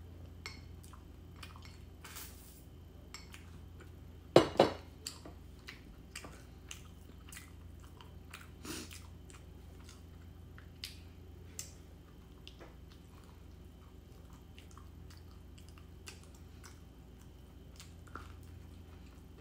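Close-up eating sounds: a person chewing and biting into a raisin scone, with many small mouth clicks throughout. Two louder knocks come about four seconds in.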